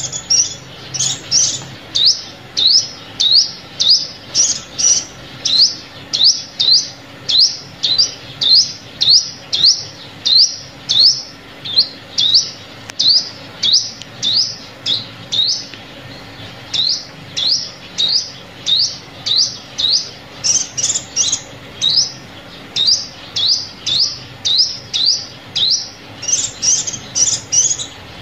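Sunbird call repeated steadily, about two short high-pitched notes a second, as a lure call for drawing in and provoking sunbirds.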